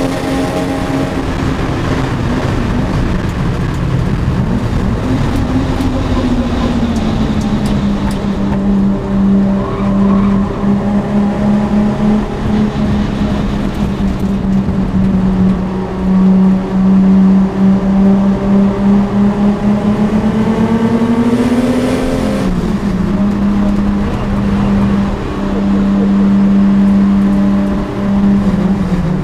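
Toyota Supra's engine heard from inside the cabin on a track lap, its pitch rising and falling with the throttle. It holds a long steady note through the middle, climbs again near the end, then drops suddenly.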